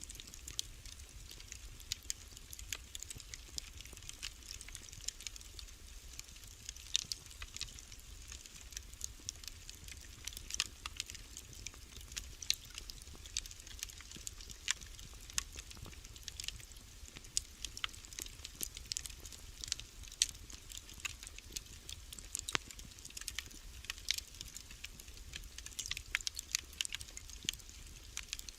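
Wood fire in a fireplace crackling: frequent irregular pops and snaps over a low steady rumble.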